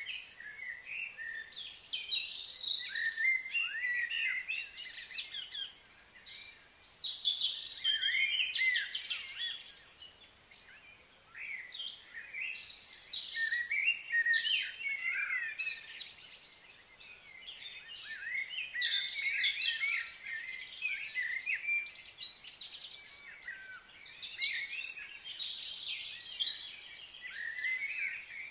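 Birds chirping and singing, many short high calls overlapping in bouts, with a couple of brief lulls.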